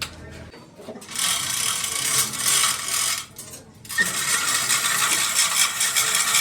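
A low steady machine hum stops about half a second in. Then a loud, fast mechanical rattle runs in two spells, the first for about two seconds and the second from about four seconds in.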